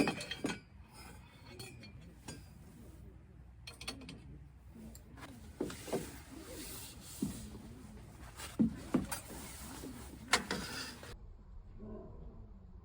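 Objects being handled: scattered knocks, rubs and light clinks, with a few louder knocks, quieter in the last couple of seconds.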